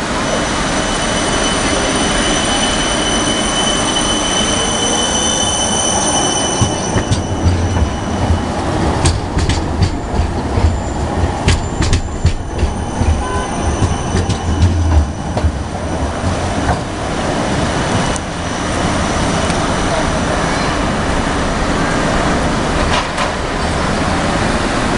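Siemens Avanto tram-train pulling away from a station. A high steady whine lasts for the first seven seconds or so. Then comes a low rumble with a run of sharp wheel clicks over the track, and it settles into steady running noise.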